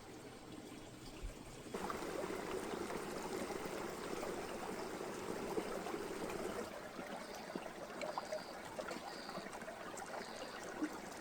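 Hot spring water trickling and flowing steadily, getting louder about two seconds in and easing somewhat after about seven seconds.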